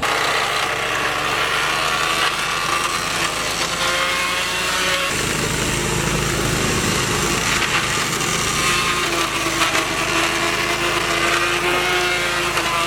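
Cub Cadet riding mower running with its blade deck cutting through brush and small saplings, a steady, dense mechanical noise with the engine's note wavering slightly.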